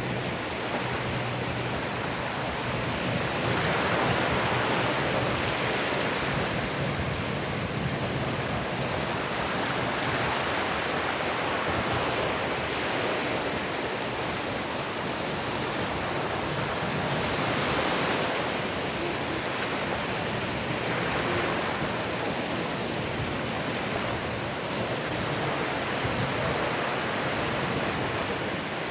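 Ocean surf washing onto a beach: a steady rush that swells and ebbs every several seconds as waves break and run up the sand.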